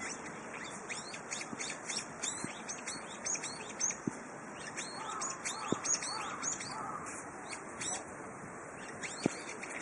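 Birds chirping in many quick, high, overlapping notes, with a few lower calls in the middle, over a steady rush of wind.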